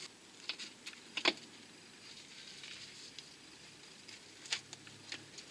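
A few scattered light clicks and taps as a car's wheel arch liner is fitted back into place, one a little sharper about a second in.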